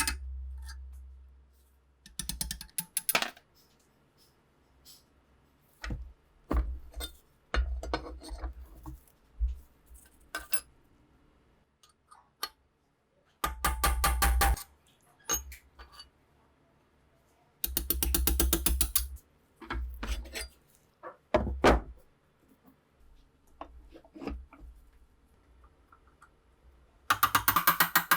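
Small metal mechanism parts clicking and ratcheting under hand work: scattered single clicks and knocks, broken by several short runs of rapid, even clicking, the densest near the end.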